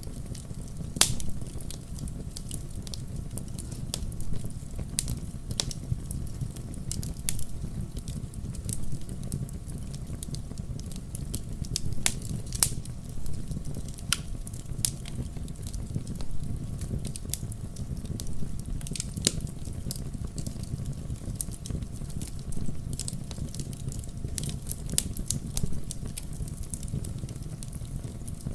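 Wood campfire burning: irregular sharp crackles and pops, sometimes several close together, over a steady low rumble of the flames. A few pops stand out louder, one about a second in and another about twelve seconds in.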